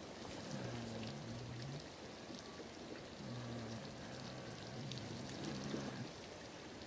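A sleeping goat making low, pitched snoring noises with its breathing, a few drawn-out sounds about a second long each. A light patter of ticks runs underneath.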